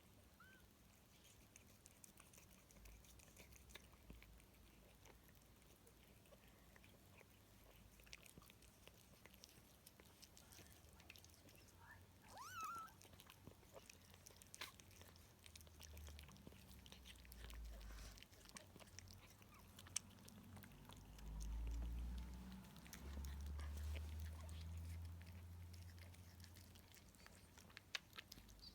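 Faint wet licking and chewing sounds from a mother cat tending a newborn kitten, with a brief high squeak about twelve seconds in and low rumbling in the second half.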